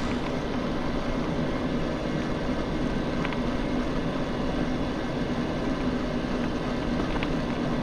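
Steady noise of an electric mountain bike being ridden: wind and tyre rumble with a low, steady hum.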